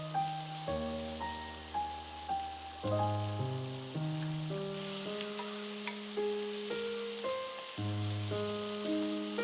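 Food sizzling as it is stir-fried in a pan: a steady hiss with small clicks. Background music plays a melody over it.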